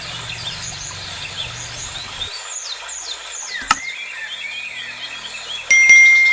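Birds chirping in an aviary, with many short falling calls overlapping. A sharp click comes partway through, and near the end a sudden, loud ringing tone starts and fades over about a second.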